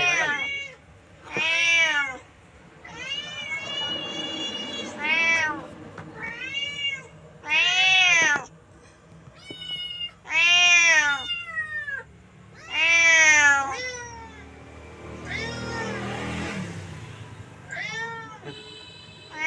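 A cat meowing over and over, about a dozen separate meows a second or two apart, each rising then falling in pitch, one of them drawn out longer.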